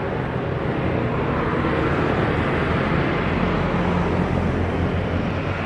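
Jet airliner engines running, a steady broad rumble with a low hum beneath it.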